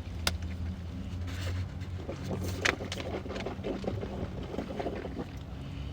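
Close-up chewing of crunchy fried food, with sharp clicks about a third of a second in and near the middle, and a run of crackly crunches in the second half, over a steady low hum.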